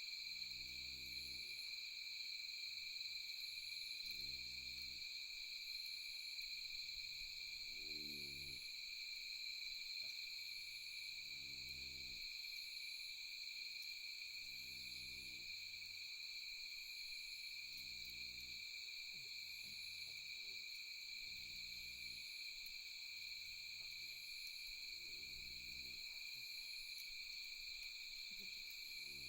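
Night insect chorus, a steady high trill with faint chirps above it. A low call with harmonics repeats about every three and a half seconds throughout.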